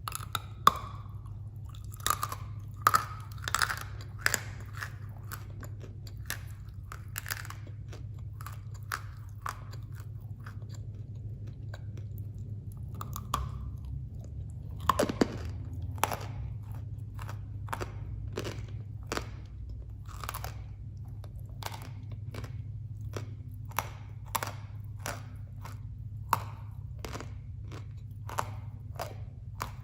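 Dry, hard edible clay (khawa) being bitten and chewed close to the microphone: irregular sharp crunches, bunched in several clusters, over a steady low hum.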